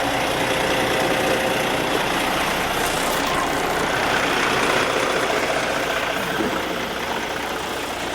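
Cummins 400-horsepower diesel in a 2014 International ProStar semi truck idling steadily.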